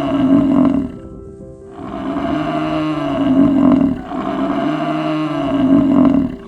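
A large animal giving long, loud calls, each lasting about two seconds and repeated three times with short pauses between, over background music.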